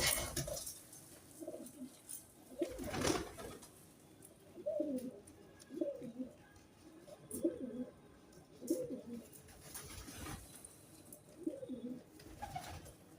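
Pigeons cooing: a run of low, repeated coos, with two short rustling noises between them.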